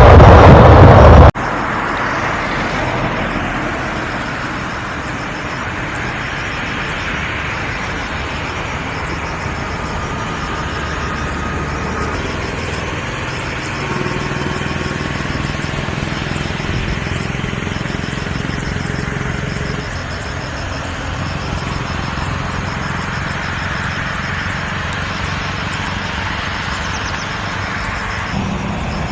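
A very loud engine roar cuts off abruptly about a second in, followed by a steady, much quieter engine rumble.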